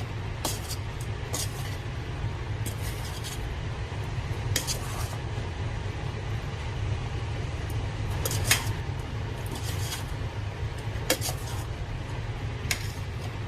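Kitchen utensils clinking and scraping against dishes in short irregular strokes, over a steady low hum, while a Thai seafood salad is prepared.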